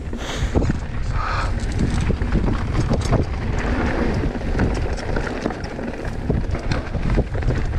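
Mountain bike descending a trail at speed: wind buffeting the microphone over tyre noise on the dirt, with frequent short rattles and knocks from the bike.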